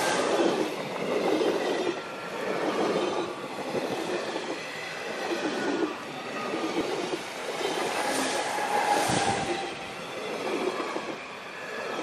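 Coaches of a Berner Oberland Railway narrow-gauge passenger train rolling past close by, the wheels clattering on the rails in repeated swells every second or two, with a faint thin wheel squeal over it.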